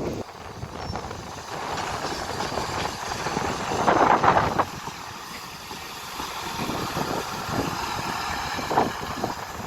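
A diesel train running, its rumble steady with no clear tone. Wind buffets the microphone in gusts, loudest about four seconds in.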